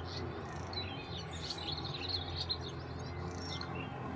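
Small birds chirping and twittering in short scattered calls, over a steady low background hum.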